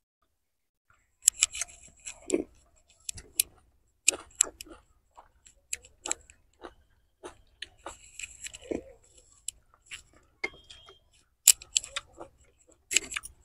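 Close-miked eating, starting about a second in: wet chewing and irregular lip-smacking clicks on mouthfuls of chicken biryani, with a spoon clinking against a glass bowl, one short ringing clink near the middle.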